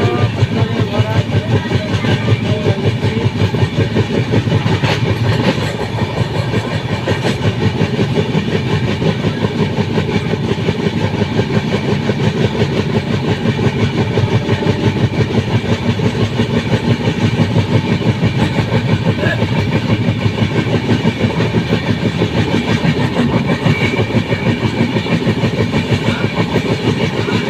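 Train running along the track: a loud, steady rumble with a fast, even clatter.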